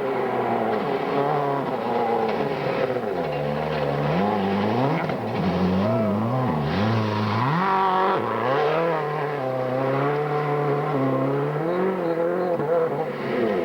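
World Rally Car engine revving hard, its pitch climbing and dropping again and again through gear changes and braking.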